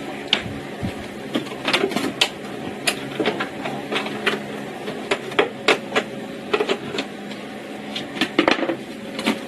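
Hammering: irregular sharp knocks, one to three a second, over a steady low hum.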